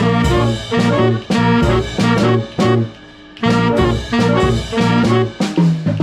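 Swing band playing, the ensemble in short, punchy repeated phrases, with a brief break about three seconds in.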